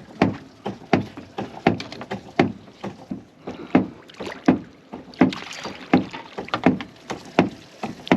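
Steady rhythmic thumping on a fishing boat's hull, about one and a half heavy knocks a second with lighter ones in between: thumping the boat to draw striped bass up under it.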